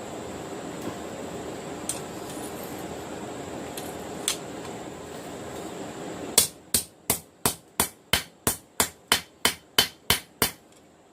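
Hammer blows on a steel knife blank on an anvil: after several seconds of steady background noise, a quick even run of about fifteen ringing strikes, three to four a second, that stops shortly before the end.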